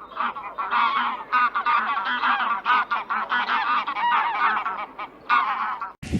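A flock of geese honking, many short calls overlapping in quick succession, stopping shortly before the end.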